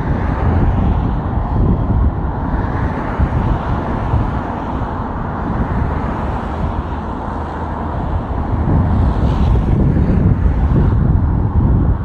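Freight train passing close by: a loud, steady rumble with wind buffeting the microphone.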